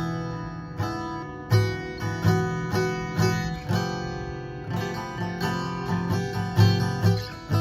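Acoustic guitar being strummed, chords struck a little under a second apart and left to ring between strokes.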